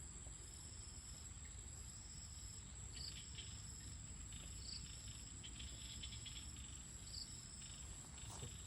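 Evening insect chorus: a continuous high-pitched trill, with a second, lower call repeating about every two seconds and a scratchy chirring joining in about three seconds in, over a faint low rumble.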